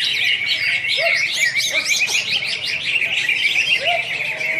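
Green leafbird (cucak hijau) singing a fast, unbroken stream of high chirps and trills, with a few lower whistled notes mixed in.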